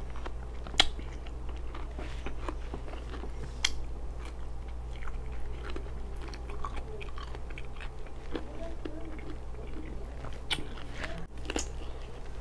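Close-up mouth sounds of someone chewing and crunching raw cucumber, with a few sharp crunchy bites standing out, over a steady low hum.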